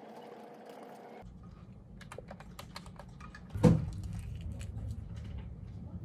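Typing on a computer keyboard: a scatter of quick key clicks, with one much louder thump about three and a half seconds in.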